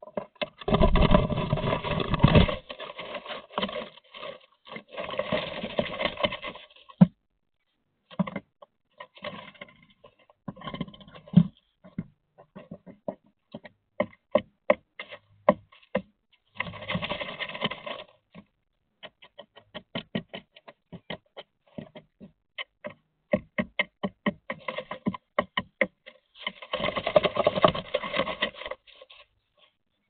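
A common starling moving about inside a wooden nest box: several longer bouts of rustling and scuffling against the dry nesting material and the boards, with many sharp taps and clicks of claws and beak on wood in between. The sound is boxy and close.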